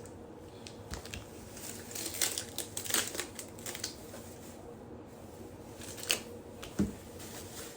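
Plastic grocery bags rustling and crinkling in irregular bursts as items are handled and taken out, with a light knock near the end.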